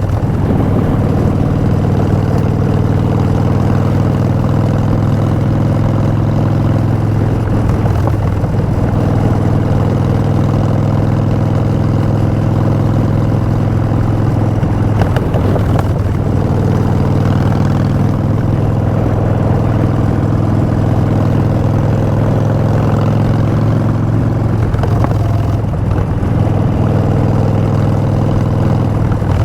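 2016 Harley-Davidson Street Bob's air-cooled Twin Cam V-twin running through Vance & Hines Short Shots exhaust, a steady deep note with brief shifts in pitch about 8, 15 and 25 seconds in.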